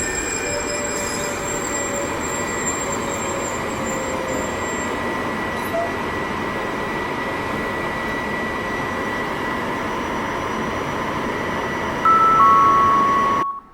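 A train passing through the station: steady wheel-on-rail noise with thin, high squealing tones from the wheels. Near the end a loud two-note horn sounds, high then lower, and the sound cuts off abruptly.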